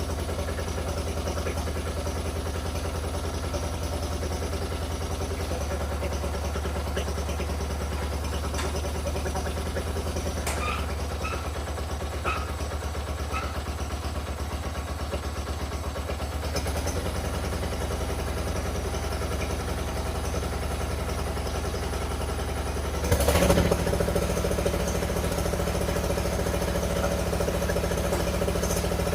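The 1997 Mastercraft 12.5 hp lawn tractor's Briggs & Stratton engine idling steadily. About three-quarters of the way through there is a sudden loud clatter, and the engine then runs a little louder with a changed note.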